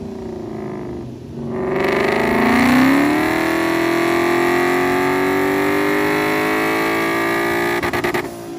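Ford Mustang Boss 302's 5.0-litre V8 making a pull on a chassis dyno. After a short dip the revs rise sharply, then climb slowly and steadily under load for several seconds. Near the end the engine stutters for a moment and drops off.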